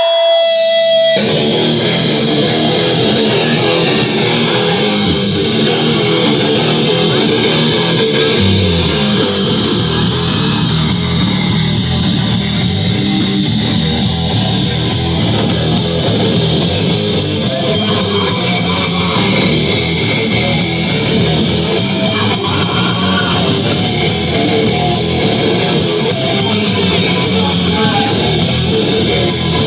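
Live heavy metal band playing loud, with distorted electric guitars and bass. A steady held tone cuts off about a second in as the full band kicks in.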